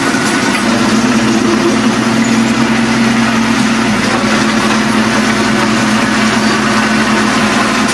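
Earthmoving machine's diesel engine running steadily at a constant, even pitch.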